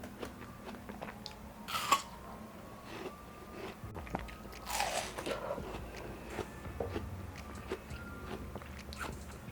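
Close-up eating of juicy watermelon: crunching bites and chewing, with two louder bites, one about two seconds in and one about five seconds in.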